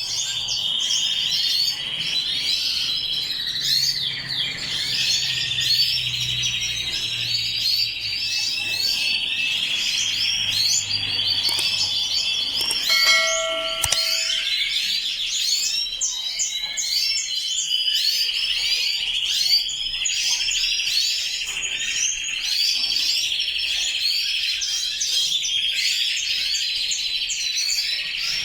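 A roomful of canaries chirping and singing at once, a dense, unbroken chatter of trills. About halfway through, a short ringing tone sounds for about a second, and a low hum under the birds stops at the same moment.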